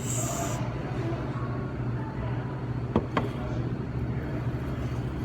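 Busy diner ambience: a steady low hum with faint background chatter, and two sharp clicks close together about three seconds in.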